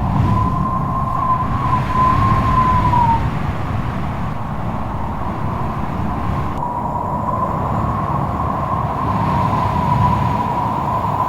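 Strong gusty wind blowing hard, a deep rumble with a single high whistling howl that wavers in pitch, dies away about three seconds in and sets in again a little past halfway.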